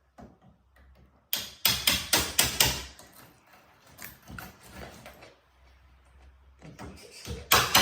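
Hammer blows struck in quick runs, about four a second: six strikes a second or so in, then a second run starting near the end.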